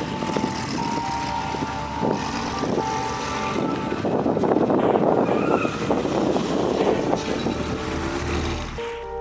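A motor vehicle running: a dense, steady rumble, with a thin steady whine that comes and goes.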